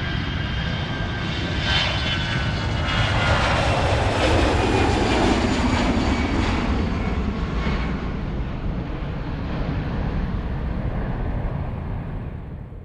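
Airplane flying past overhead: its engine noise swells, a high whine falls in pitch as it passes, and the sound fades away.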